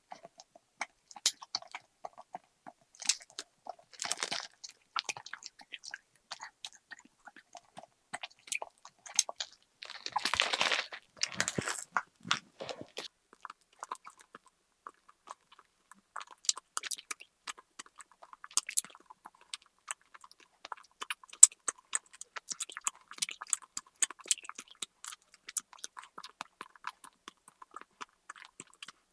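Close-miked chewing of a mouthful of sweets, a rapid run of small moist clicks and smacks, with a louder noisy burst about ten seconds in.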